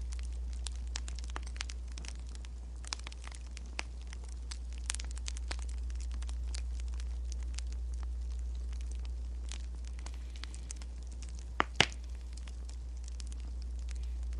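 Wood fire crackling, a steady scatter of small pops and snaps over a low, even rumble. Two sharper, louder clicks come close together about twelve seconds in.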